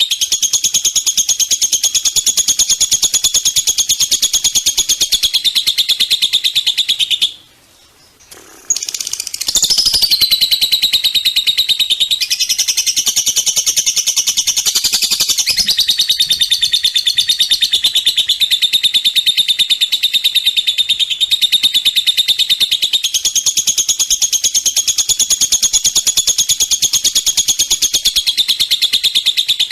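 Small songbird singing a long, very fast rattling trill of high notes, with a break of about a second roughly a quarter of the way in. After the break the trill sweeps up and down in pitch for a few seconds before steadying.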